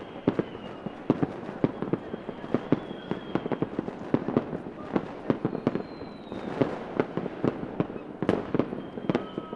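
Fireworks going off in a dense, irregular string of bangs and pops, with thin high whistling tones that sag slightly in pitch a few times.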